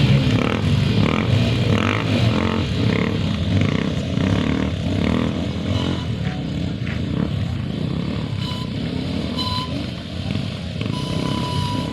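Motorcycle engines running close by, a steady rumble throughout. In the second half a short, steady high tone sounds several times over it.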